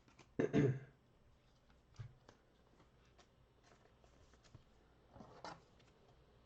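Faint soft clicks and rustles of football trading cards being handled and slid one after another, with a brief vocal sound about half a second in.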